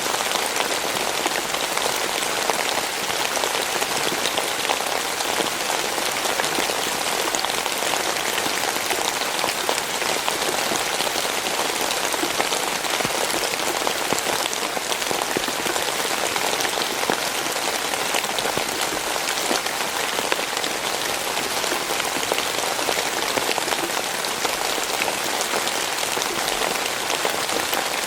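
Steady rainfall, with dense, fine drops pattering on a surface. It is a constant hiss without pauses or changes.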